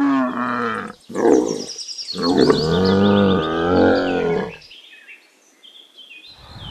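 Dromedary camel calling: three low, drawn-out groans in a row, the third and longest lasting about two and a half seconds.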